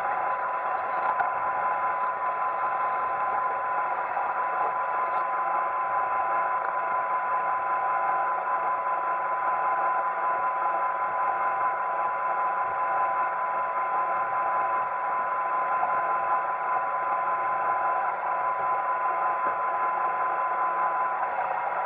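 iRobot Roomba 880 robot vacuum running, its vacuum motor and brushes giving a steady whirring hum with a constant high whine. The whine dips briefly near the end.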